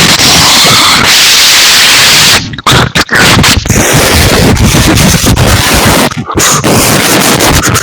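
A boy imitating a thunderstorm with his mouth: loud, distorted rushing noise close to the microphone, broken by short gaps about two and a half and six seconds in.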